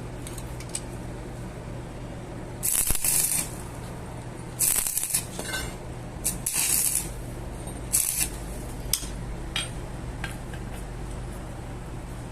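Steady low machine hum with four short bursts of hissing noise about three to eight seconds in, and scattered metallic clicks and rattles.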